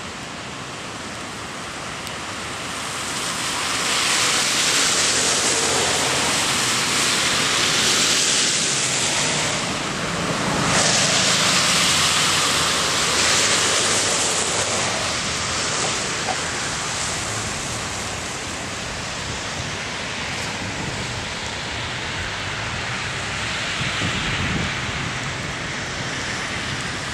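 Rushing floodwater: a steady wash of fast-moving water that grows louder a few seconds in and eases off somewhat after about fifteen seconds.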